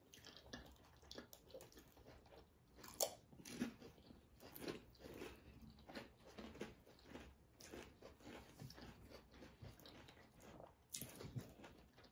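Quiet chewing with sharp crunches of potato chips being bitten and chewed, a crunch every fraction of a second, the loudest about three seconds in and another cluster near the end.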